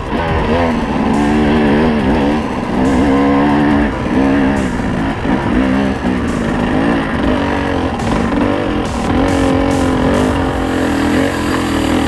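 Trail motorcycle's engine running under load, its pitch rising and falling repeatedly as the throttle is worked on and off.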